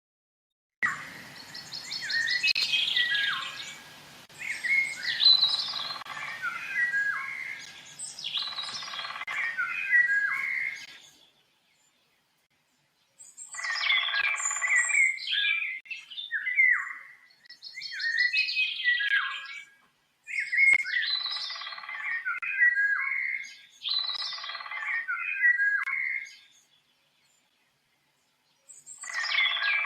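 A songbird singing the same phrase of whistled notes and quick trills over and over, about eight times, each phrase two to three seconds long. The song stops twice for about two seconds. A faint low hum lies under the first ten seconds.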